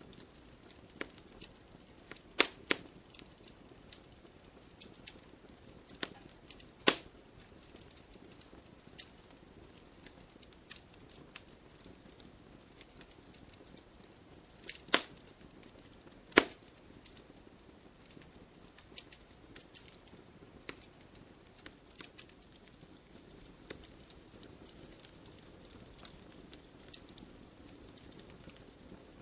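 Campfire crackling: burning wood snapping and popping at irregular intervals, with four sharper, louder pops spread through.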